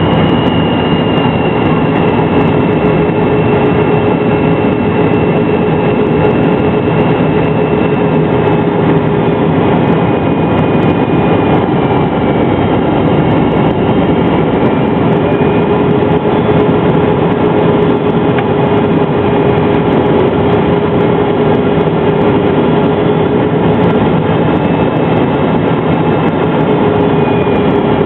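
The running engines of a McDonnell Douglas MD-83 airliner: a steady, loud rush of engine and air noise carrying two thin whining tones that drift slowly in pitch.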